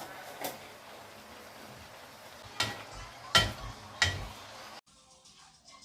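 A few sharp clinks and knocks of kitchenware, utensils striking a pot or dish, three of them close together in the middle, over a steady background hiss that cuts off abruptly near the end.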